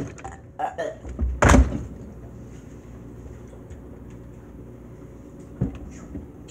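Knocks and a heavy thud of containers being handled inside a refrigerator, picked up from inside the fridge, the loudest about a second and a half in. A steady low hum follows, with one softer knock near the end.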